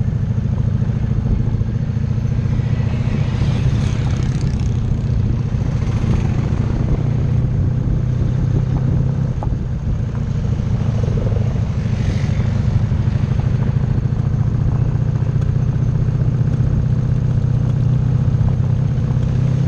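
Motorcycle engine running at a steady pitch and load.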